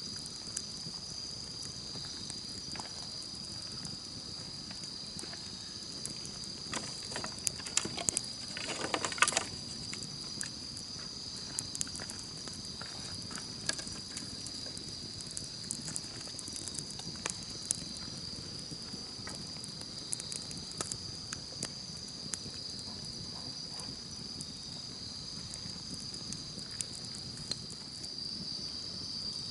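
Campfire crackling with scattered sharp pops, a burst of louder crackles about eight seconds in, over a steady high chirring of insects.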